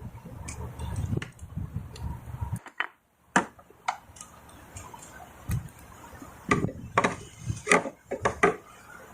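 Low handling rumble, then a string of sharp, irregular clicks and taps, thickest near the end, as a Teflon-taped threaded fitting is screwed into a pool pump.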